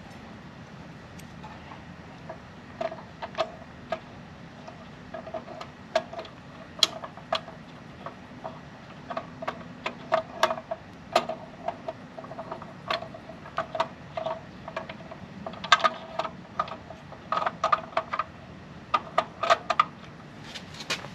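Irregular light clicks and metallic taps of hand work on a bandsaw's motor starter while its coil is being changed, with parts and tools knocking together. Some taps ring briefly, and the taps come thicker after the first few seconds.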